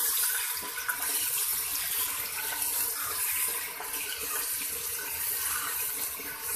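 Mutton and onions sizzling in hot oil in a pressure cooker while being stirred with a wooden spoon: a steady frying hiss.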